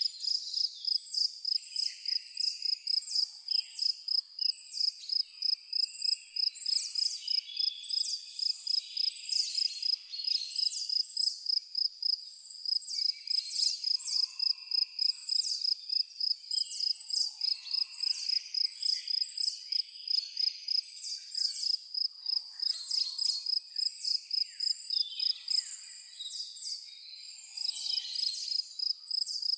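Forest chorus: an insect chirping in a steady, rapid high-pitched pulse, with several birds calling and whistling over it.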